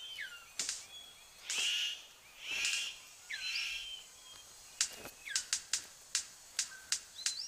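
Male superb bird of paradise in courtship display: sharp clicks and snaps with two harsh, hissing calls early on, then a quick series of clicks in the second half, among short whistled chirps.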